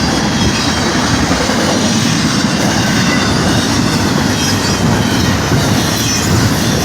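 A train rolling past close by: a steady, loud rumble of steel wheels on the rails, with clickety-clack over the rail joints and a faint wheel squeal.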